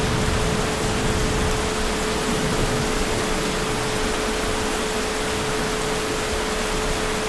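Heavy rain falling in a steady, even hiss, with a constant high hum running underneath.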